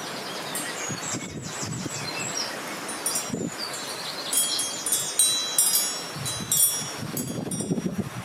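Wind chimes tinkling irregularly in a breeze, with clusters of high ringing notes thickest in the second half, over wind gusting across the microphone.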